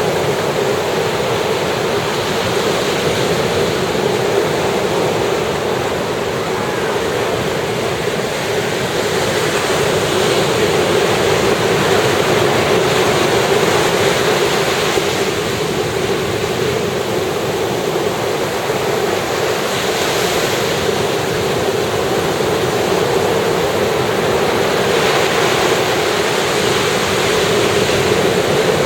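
Sea surf breaking on a sandy beach: a continuous wash of waves with slow swells as each breaker comes in every few seconds.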